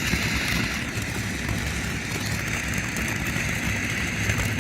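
Ocean Liner firework fountain spraying steadily, a continuous hissing rush of sparks with faint crackle.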